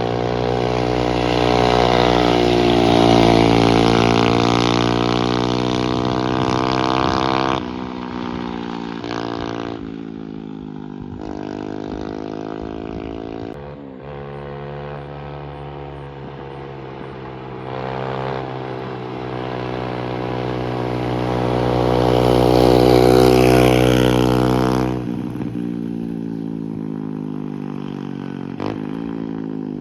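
Custom mini bike's 125cc Lifan single-cylinder four-stroke engine with a custom exhaust running under way, its pitch rising and falling several times as it is revved and eased off. The level changes abruptly a few times.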